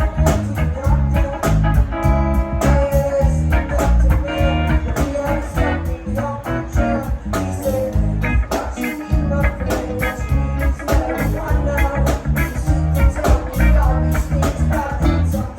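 Live rock band playing amplified electric guitar, bass and drums, with a steady beat.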